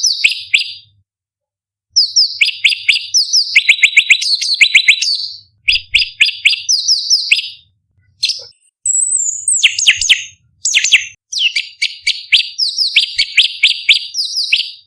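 Orange-bellied leafbird singing: loud phrases of rapid, sharp, repeated high notes, broken by several short pauses.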